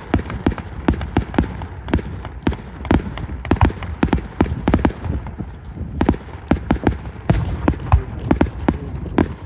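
Fireworks display: a dense, irregular string of sharp bangs and crackles, several a second, over a continuous rumble of aerial shell bursts.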